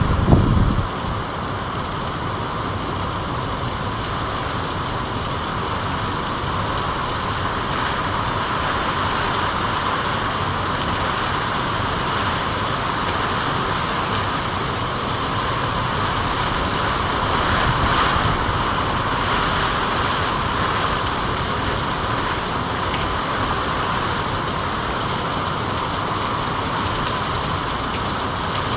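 Steady rainfall, an even hiss of falling rain, with a brief low rumble in the first second.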